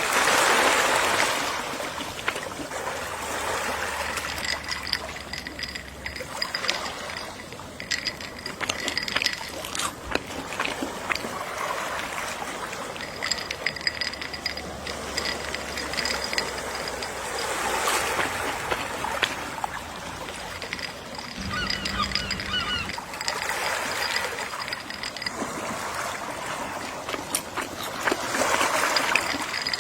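Gentle sea waves washing ashore, swelling three times, with a few seagull calls in between.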